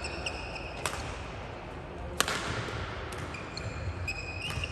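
Badminton rally in a sports hall: sharp racket strikes on the shuttlecock, about a second in and again a little after two seconds (the loudest), with high shoe squeaks on the court floor near the start and in the second half.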